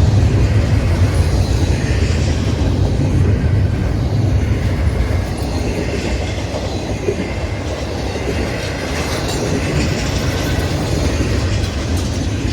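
Long intermodal freight train's container and trailer cars rolling past, a steady loud rumble of steel wheels on the rails.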